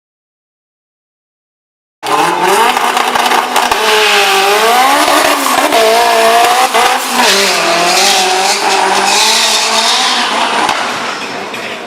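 Race car's engine revving up and down hard with tyres squealing, starting about two seconds in after dead silence.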